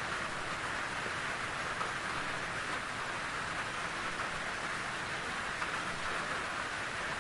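Steady rain falling in a forest, an even hiss of drops on leaves and ground.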